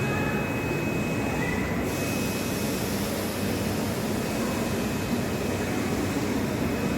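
Steady train noise at a railway station platform, with a hiss in the upper range coming in about two seconds in and a thin steady high tone underneath.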